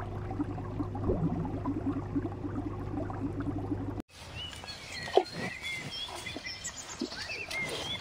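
Underwater noise: a low steady hum with fast crackling. It cuts off suddenly about halfway, giving way to outdoor ambience with small birds chirping.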